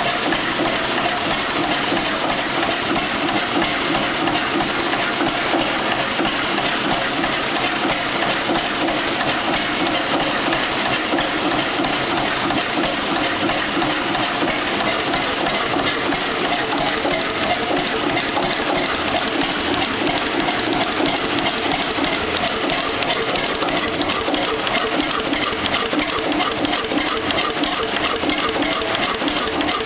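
Ruston Hornsby 2YHR 15 hp diesel engine running steadily at an even pace.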